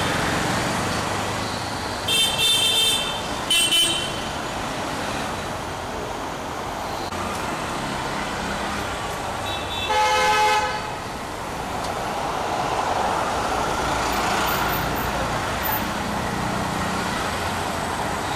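Road traffic with car horns honking: a short double honk about two seconds in, another brief honk a second later, and a longer honk about ten seconds in, over a steady traffic rumble.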